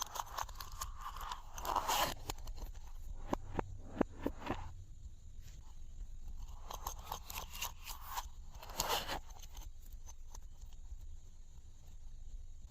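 Glossy slime being worked by hand, giving crunchy crackles and sharp sticky clicks and pops. The pops cluster in the first half, between softer squishing swells.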